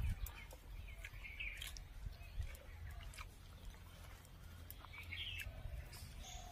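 Small birds chirping a few short calls, about a second and a half in and again near the end, over a faint steady low rumble with scattered soft clicks.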